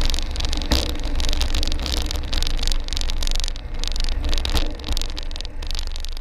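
Piper Cherokee 140 engine and propeller noise heard in the cockpit, a steady rumble and hiss broken by a few sharp thumps, fading out at the end.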